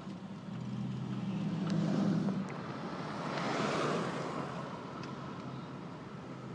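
Car driving, heard from inside the cabin: a steady low engine hum with road noise, the hum stronger in the first couple of seconds. About three seconds in, a rush of noise swells and fades again.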